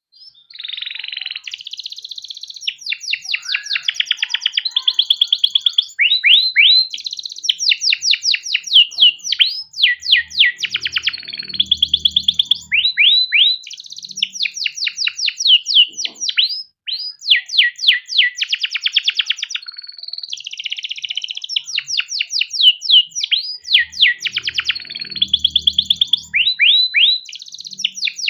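Male canary singing a long, continuous song of fast rolling trills and repeated chirped phrases, breaking off briefly partway through. A faint low rumble sounds twice under the song.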